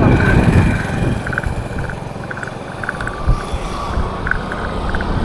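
Road traffic noise heard from a moving bicycle, with wind rumbling on the microphone. The rumble is strongest in the first second and then eases to a steadier background.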